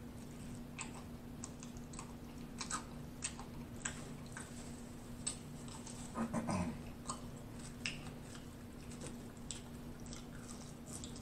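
Close-miked mouth sounds of a person chewing fried food: scattered wet smacks and clicks, with a short hummed "mm" about six seconds in. A steady low electrical hum runs underneath.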